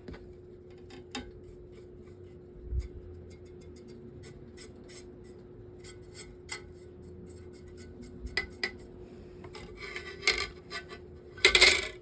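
A brush scrubbing dust and hair off a metal table fan's blade assembly and shaft in short scratchy strokes, with light metallic clinks. The scrubbing gets louder about ten seconds in and again near the end.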